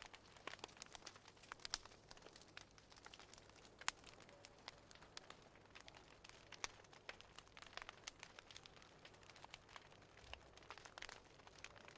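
Wood fire crackling: irregular small pops and snaps, several a second, over a faint hiss.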